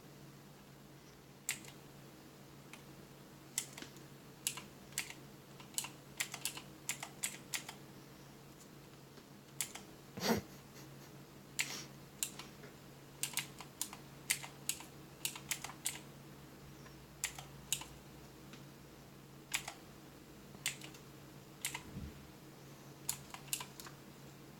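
Irregular light clicks and taps on a hard surface, sometimes several in quick succession, with one louder knock about ten seconds in, over a steady low hum.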